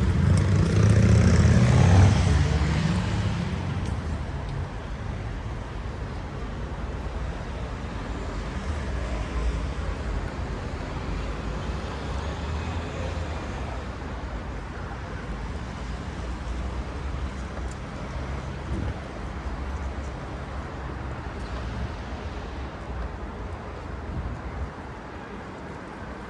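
Outdoor city ambience: a steady low rumble, loudest during the first three seconds and then easing to an even level.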